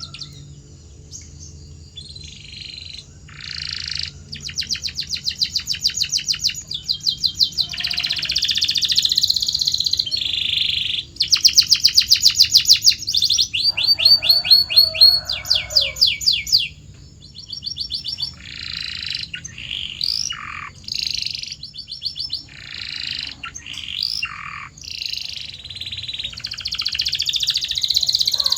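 Domestic canary singing a run of song phrases, each a rapid trill of evenly repeated notes, some fast rolls and some notes sweeping down in pitch, one phrase after another with short gaps.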